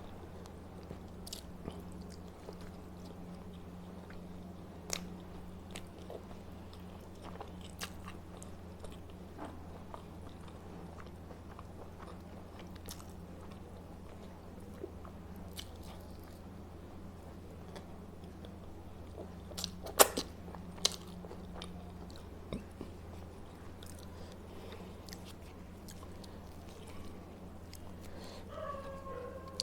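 A person eating close to the microphone: chewing and biting with scattered small mouth clicks, and a sharper click or clatter about twenty seconds in. A steady low hum runs underneath.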